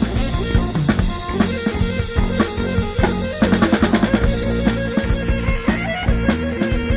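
A band playing a song: drum kit beating a steady rhythm under sustained guitar and bass notes. A fast drum fill comes about three and a half seconds in.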